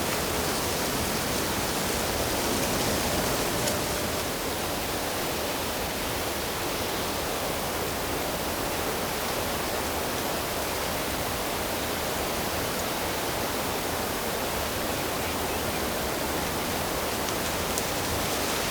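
Steady rush of running water, an even hiss with no change in level.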